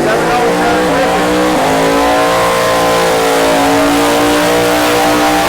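Full-size pickup truck making a drag-strip test pass at full throttle: the engine pulls hard at high revs, drops in pitch at a gear change about a second and a half in, then holds high again.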